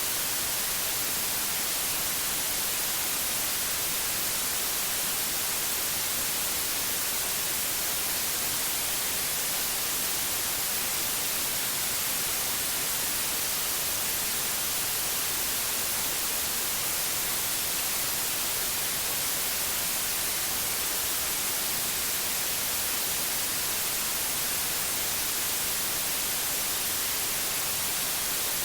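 Synthetic white noise: a steady, even hiss that stays the same throughout, brightest in the treble.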